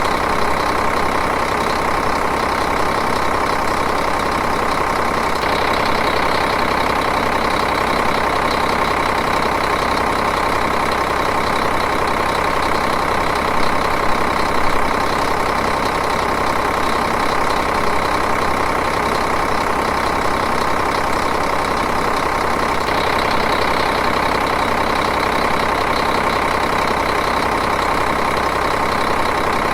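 Diesel engine idling steadily, its even running unchanging throughout.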